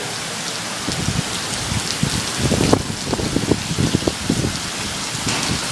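Heavy rain pouring down, a steady hiss, with uneven low rumbling through the middle.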